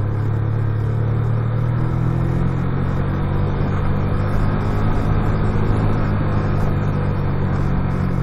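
Motorcycle engine running steadily with an even hum, pitch shifting slightly about two seconds in, over a haze of road noise.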